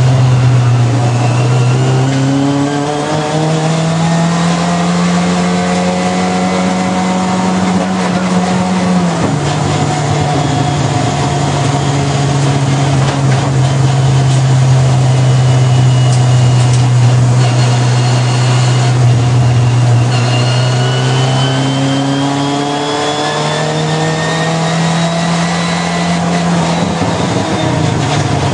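Honda race car's engine heard from inside the cabin, pulling hard with its pitch climbing and then dropping sharply at an upshift, about a third of the way in and again near the end, and holding a steady pitch in between.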